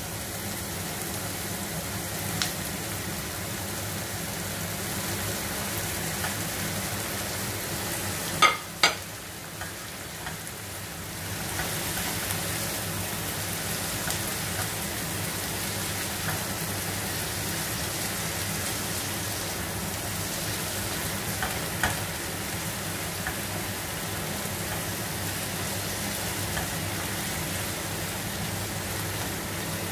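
Raw squid pieces sizzling in a frying pan with sautéed onion, garlic and tomato as they are stirred with a spatula. Two sharp knocks come a little over eight seconds in, the sizzle dips briefly, then carries on steadily.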